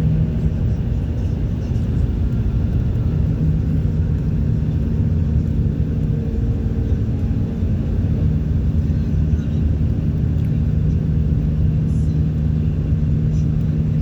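Car driving at a steady speed: a constant low engine hum with tyre and road noise, unchanging throughout.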